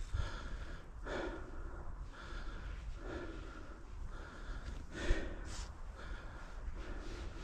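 A mountain-bike rider breathing in a steady rhythm, about one breath a second, over a steady low rumble.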